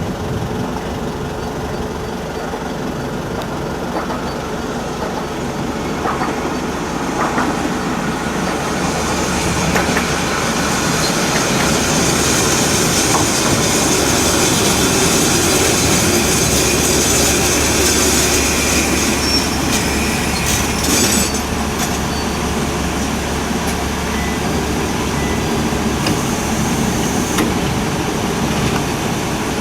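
A Hōjō Railway diesel railcar running at the station, its engine humming under wheel and rail noise. The noise grows louder about a third of the way in, then eases after a brief cluster of clicks past the middle.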